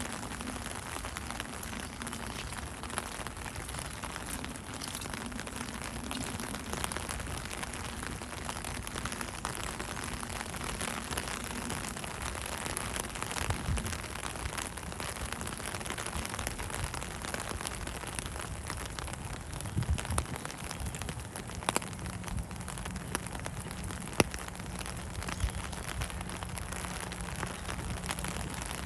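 Steady rain falling, a dense patter of drops with a few sharper, louder taps about two-thirds of the way through.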